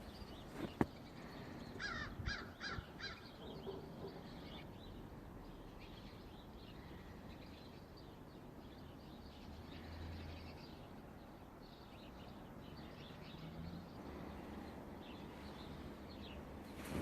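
A bird calling four times in quick succession about two seconds in, then scattered faint bird calls.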